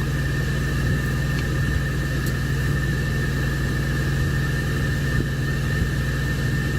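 Steady low hum of a semi truck idling, heard from inside the cab, with a constant faint high whine over it.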